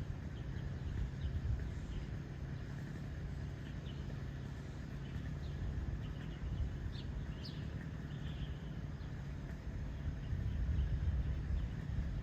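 Outdoor ambience: a steady low rumble and hum, with faint short bird chirps scattered through it, a few sharp upward chirps about seven seconds in.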